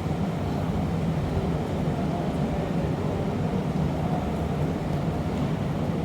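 Steady low roar of glassblowing furnaces, even and unbroken, with no distinct clicks or knocks.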